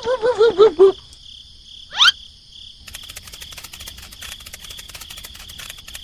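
Cartoon-style sound effects: a quick run of squeaky, warbling tones that stops about a second in, a rising whistle about two seconds in, then steady, evenly pulsed chirping like crickets.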